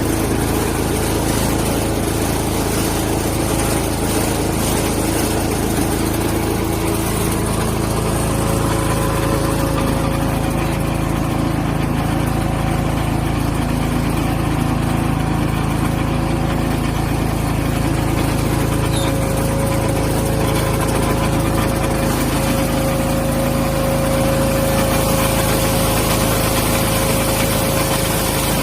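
Engine running steadily at a constant speed, powering a freewheel firewood splitter, with a steady whine over the low engine note.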